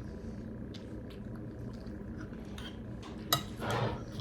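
Tableware sounds at a meal: faint scattered clinks, then one sharp clink about three seconds in followed by a brief scraping sound.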